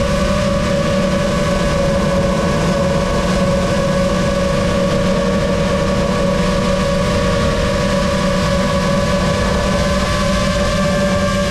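Lumenier QAV-S 5-inch FPV quadcopter's electric motors and propellers whining steadily, the pitch wavering only slightly.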